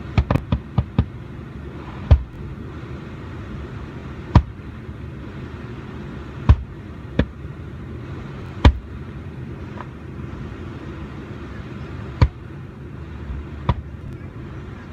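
Fireworks bursting: a quick run of bangs in the first second, then single bangs at irregular intervals of one to two seconds, over a steady low background noise.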